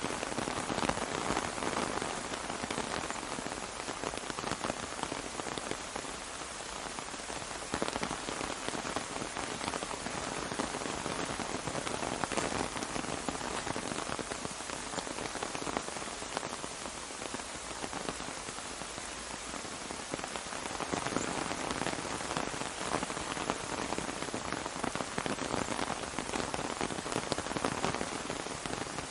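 Steady rain falling on an umbrella: a dense, even hiss of countless small drop impacts, with no let-up.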